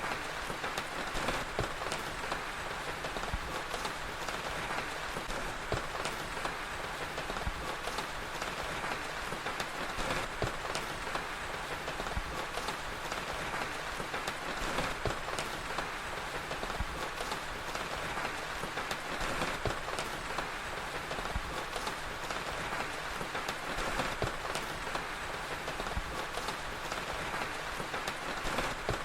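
Steady rain with scattered sharp crackles of a fire.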